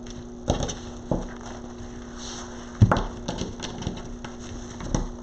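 Knocks and clicks from handling a wreath board and its pipe cleaners and ribbon: four sharp knocks, the loudest about three seconds in, with a run of small ticks after it, over a steady electrical hum.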